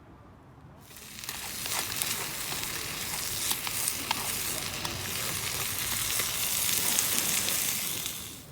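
Food sizzling as it fries in a hot pan, with small pops and crackles through it. The sizzle starts about a second in and dies away near the end.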